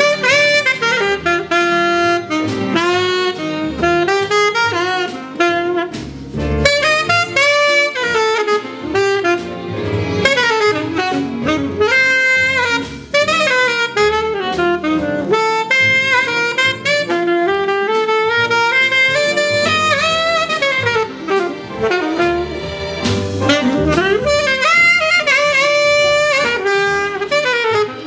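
Jazz saxophone playing fast runs of notes that climb and fall.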